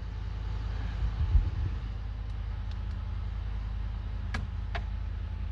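Ford F-150 pickup engine idling steadily, just started after the blown fuel pump control module fuse was replaced, curing its crank-no-start.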